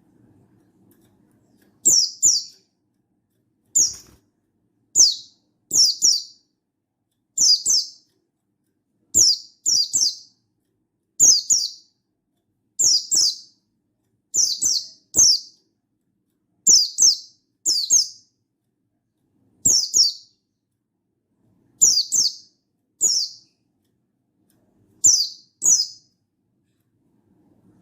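Buxtoni white-eye (pleci) giving short, high call notes that fall in pitch, mostly in quick pairs. A pair comes every one to two seconds, starting about two seconds in. It is the bird's wild-style call to a rival.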